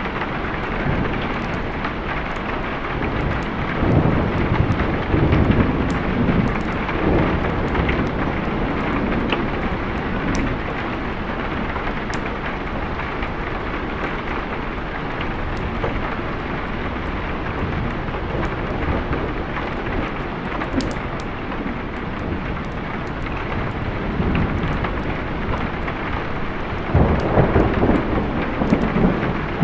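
Steady heavy rain with rolling thunder. One long rumble builds about four seconds in and lasts several seconds, and a second rumble comes near the end.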